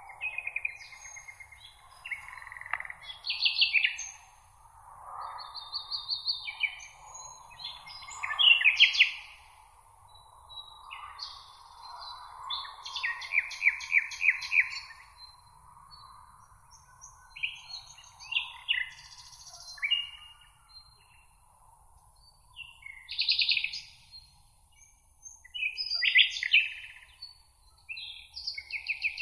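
Songbirds singing in a meadow: a string of short varied phrases and fast trills, one after another, with brief pauses between them.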